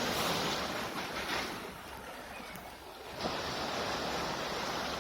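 Baltic Sea waves washing onto the shore, swelling, easing off, then surging again about three seconds in.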